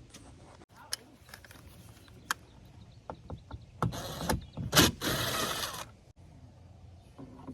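Scattered clicks and handling noise as a plastic car door trim panel is worked loose, with two short scraping rushes about four and five seconds in and a sharp snap between them.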